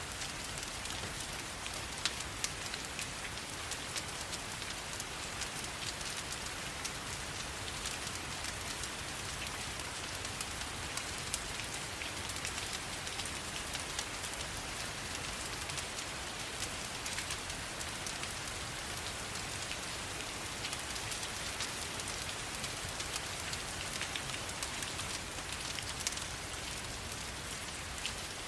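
Steady rain falling, an even hiss, with scattered sharp crackles from a wood fire layered underneath.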